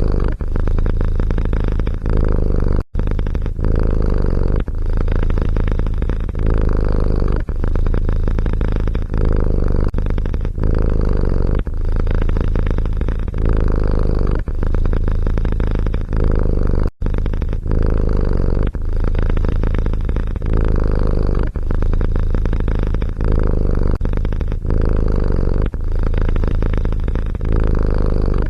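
Domestic cat purring loudly and close up: a steady rumble that swells and dips about once a second with each breath in and out. It cuts out briefly twice, once a few seconds in and once past the middle.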